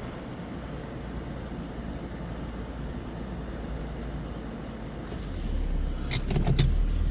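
Car engine running with a steady low hum, growing louder about five seconds in as the stuck car and trailer are driven out, with a few sharp knocks near the end.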